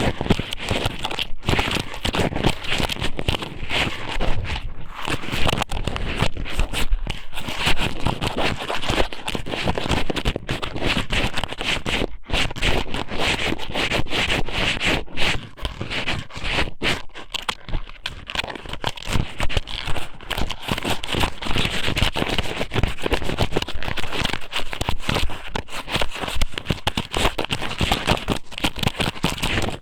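Squid somen strips being pushed into and rubbed against an ear microphone: a close, dense crackling and scraping full of small wet clicks that never lets up.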